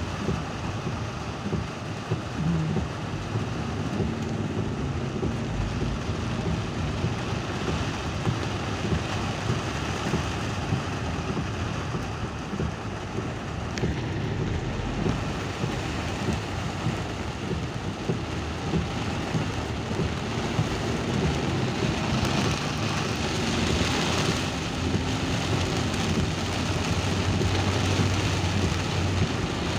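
Steady rain falling, with a low vehicle engine hum underneath; the rain gets a little louder in the last third.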